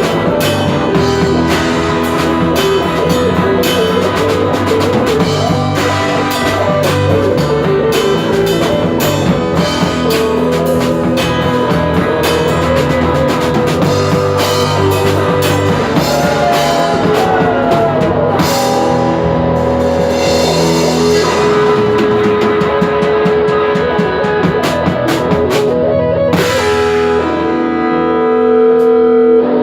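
Rock band playing an instrumental passage on drum kit and guitar. There is a cymbal crash about two-thirds of the way through and another near the end, where the music swells louder.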